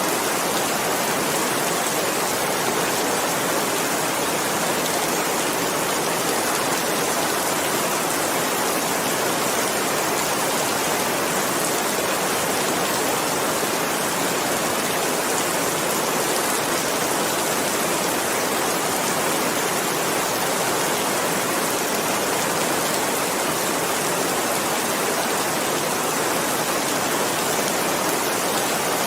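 Steady, heavy rain: a dense, even hiss in which no single drops stand out, unchanging throughout.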